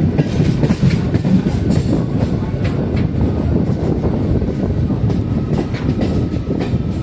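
Indian Railways train running on the tracks: a loud, steady rumble with its wheels clattering over the rail joints in scattered clicks.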